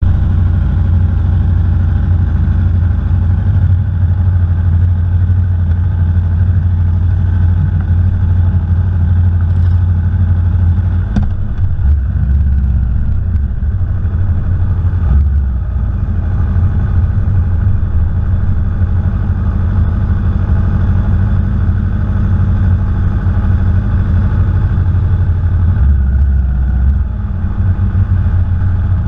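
Aprilia Tuono V4 Factory motorcycle's V4 engine running loud and steady, its low note changing briefly a few times.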